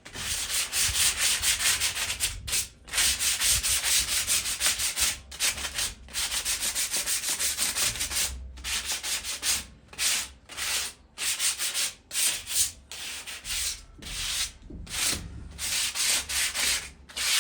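Sandpaper worked quickly back and forth by hand over a rusted metal patio chair, scraping off surface rust and old paint. Rapid rasping strokes in runs, broken by short pauses every second or two.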